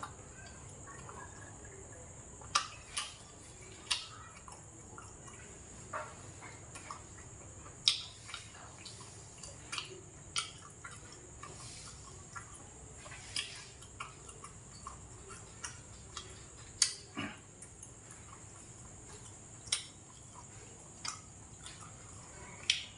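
Wet mouth clicks and smacks of a person chewing food close to the microphone, sharp and irregular, one every second or two, over a steady high-pitched hiss.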